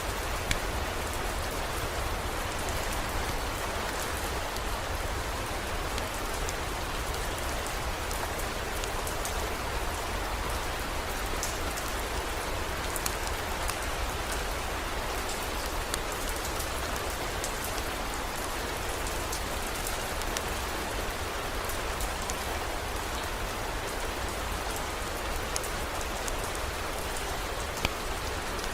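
Steady heavy rain pattering on a surface, with scattered sharp ticks of individual drops over a low steady rumble.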